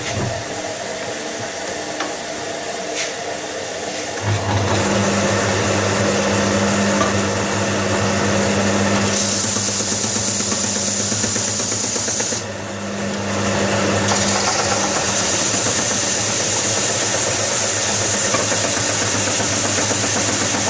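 Electric workshop machinery running steadily with a low hum and a hiss. A second, louder machine joins about four seconds in, adding a stronger hum and a bright hiss. Its sound drops briefly near the middle, then carries on.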